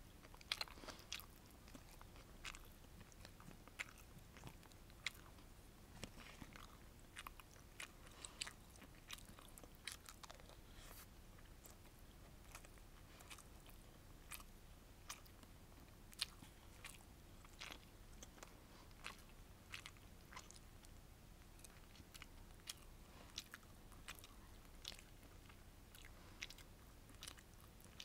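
Close-miked, quiet eating of sweet and sour fish with rice: chewing with many small, sharp, irregular mouth clicks, over a faint steady hiss.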